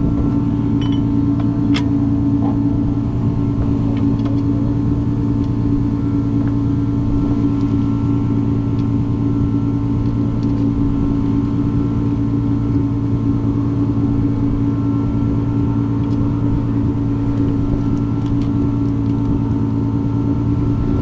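The Toyota Corolla's 1.5JZ straight-six engine running steadily at one speed without revving, a constant low drone.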